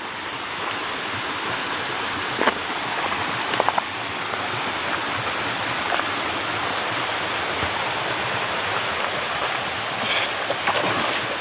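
Mountain stream water running steadily into a pool, an even rushing hiss, with a few brief faint ticks about two and a half and three and a half seconds in and again near the end.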